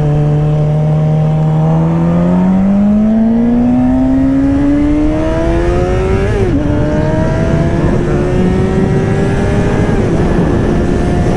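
Suzuki GSX-R 600's inline-four with an M4 slip-on exhaust, under a steady rumble of wind. The engine pulls up through the revs while accelerating, shifts up about six and a half seconds in, then climbs again more slowly and settles at a steady cruise.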